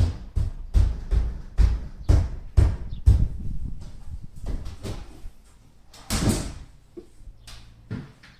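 Sharp knocks, about two a second for the first three seconds, then scattered clicks and a brief scrape about six seconds in: door-fitting work on a unit bath's folding door.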